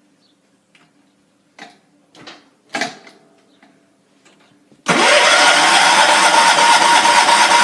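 A few light clicks and knocks, then about five seconds in a 1979 John Deere 214 lawn tractor's single-cylinder Kohler engine starts up abruptly and runs steadily and loudly, after sitting unused for three weeks.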